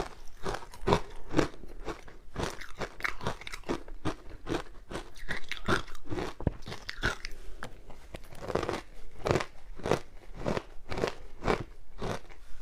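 Close-miked crunching of frozen matcha ice being chewed, a rapid run of sharp crunches, several a second.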